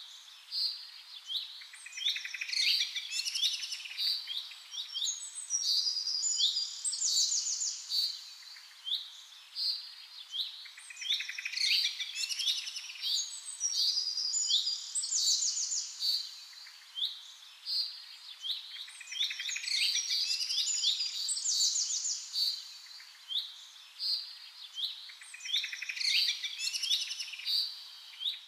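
Several songbirds chirping and calling together, with many short high chirps and quick downward-sweeping notes overlapping one another, over a faint steady hiss.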